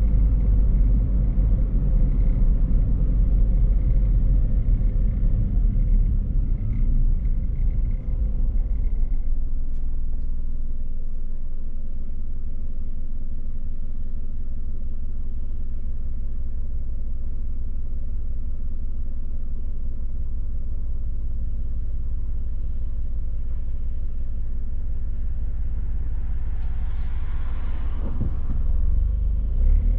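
A car driving, with a low rumble of engine and road noise. About a third of the way in it settles into a smoother, steady low hum, and near the end a short rush of noise swells and fades.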